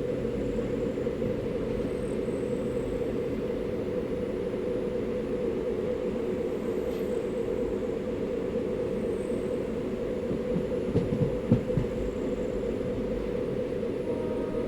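Train running along the track with a steady rumble, and a short cluster of heavier clatters about eleven seconds in.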